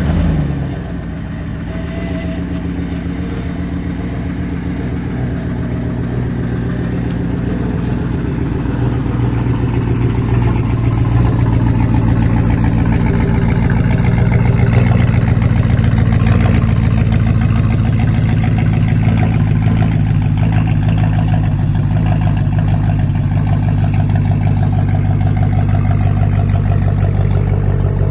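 Chevrolet Avalanche's V8 engine, just remote-started: it flares up as it catches, then settles into a steady idle.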